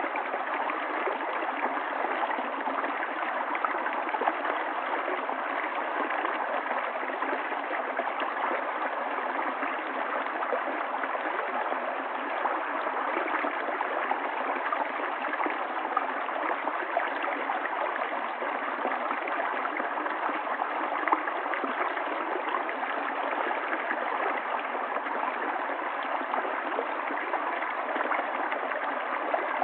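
Stream water running steadily, an even rushing noise with many small splashes through it and no change over time.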